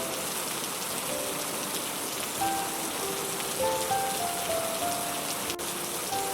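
Heavy rain falling steadily, an even hiss, with a slow, soft melody of short held notes laid over it.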